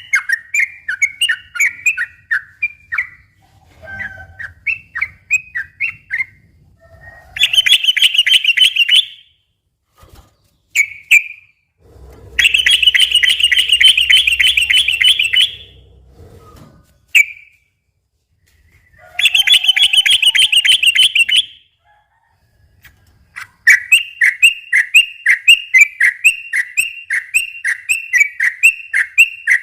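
Yellow-vented bulbul singing: runs of quick, bubbly repeated notes, broken by three long, fast rattling trills of about one and a half to four seconds each.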